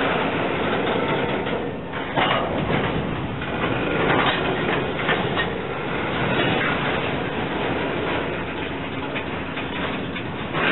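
Freight cars rolling slowly along the track, wheels clicking and clanking over the rail joints, with a few sharper knocks, the clearest about two and four seconds in.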